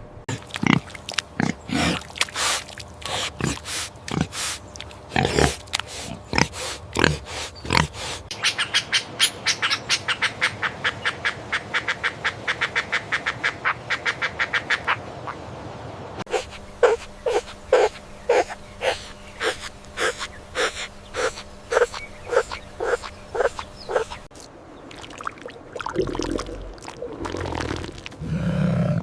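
Pigs grunting: a long run of short grunts, coming quickly in a dense string through the middle and more spaced out towards the end.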